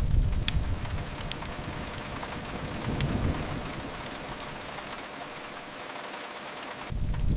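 Steady rain on a window with the sharp, scattered crackles of a wood fire in a fireplace. A low rumble swells at the start, again about three seconds in, and comes back abruptly near the end.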